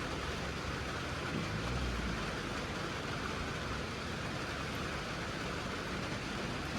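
Steady hiss of rain over a low, steady engine rumble from a farm vehicle.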